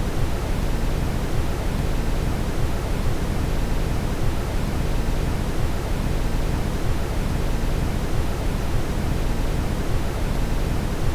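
Steady brown noise: an even, deep rushing hiss, strongest in the low end and thinning toward the top, with no changes or breaks.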